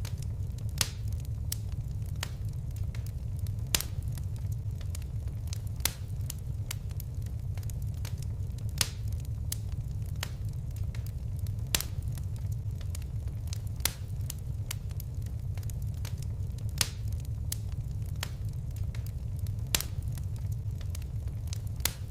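Fire crackling: a steady low rumble of flames with frequent small crackles and a louder sharp pop every two or three seconds.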